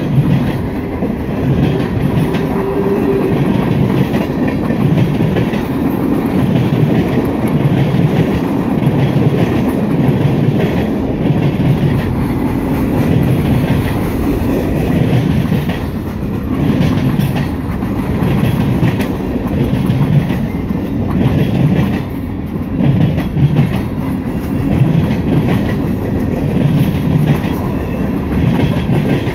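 Freight train cars (boxcars, covered hoppers and tank cars) rolling past close by, their steel wheels clattering over the rail joints in a steady, repeating rhythm.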